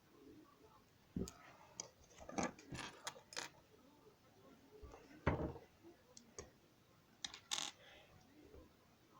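Plastic Lego pieces being handled: a string of irregular clicks and clatters as bricks knock and snap together, with one louder knock about five seconds in.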